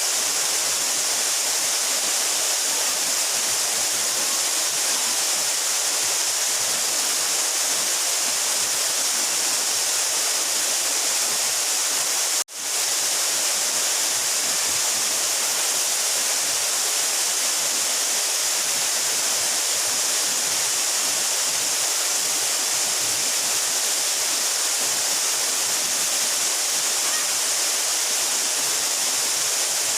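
A 12-metre mountain waterfall rushing steadily, a dense hiss strongest in the high range. The sound cuts out for an instant about twelve seconds in and quickly fades back.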